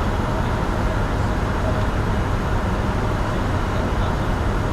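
Steady cockpit noise of a Bombardier Challenger 605 business jet in flight: a constant rush of air with a low engine hum underneath.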